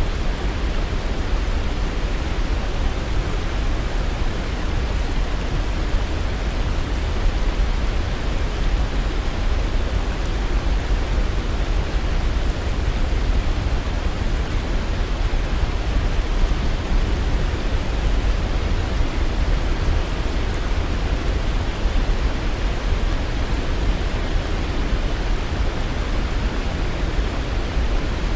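Waterfall rushing: a steady, even roar of falling water, heaviest in the low end, with no breaks or changes.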